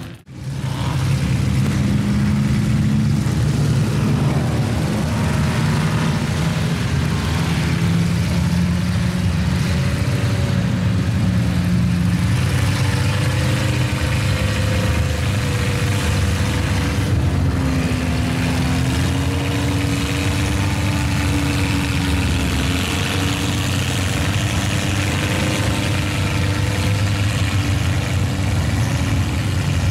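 Truck engine running at a steady loud level, its pitch slowly rising and falling as the revs change.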